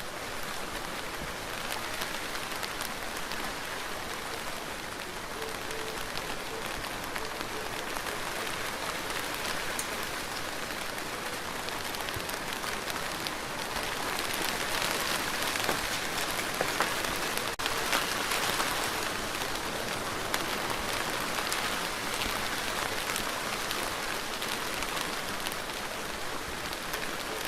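Steady rain falling on surfaces, a dense patter of drops that swells a little in the middle.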